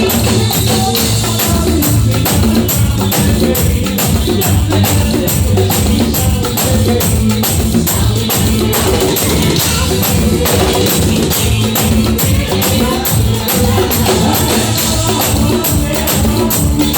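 Live band music with drums keeping a steady, fast beat.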